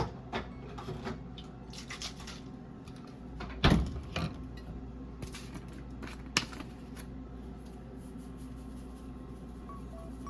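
Household handling sounds: light scrapes and clicks of objects being moved, a loud knock a little over three seconds in and another sharp knock past the middle, over a steady low hum.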